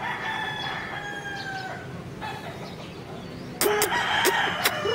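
Rooster crowing: one long, slightly falling crow in the first two seconds, then a louder, harsher call near the end.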